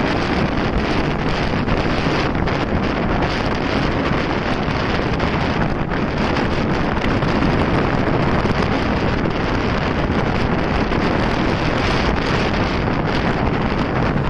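Steady wind rushing over the microphone of a moving motorcycle, with the bike's road and engine noise underneath.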